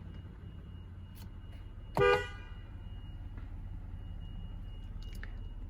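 A single short toot of a car horn, about two seconds in, over a low steady hum in the car's cabin.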